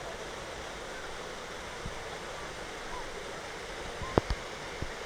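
Waterfall rushing steadily. About four seconds in come a couple of sharp knocks, the loudest thing in the stretch.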